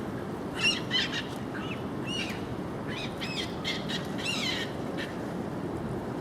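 Gulls calling: a run of short, arching, high cries, several overlapping, loudest about half a second and a second in, over a steady low background rumble.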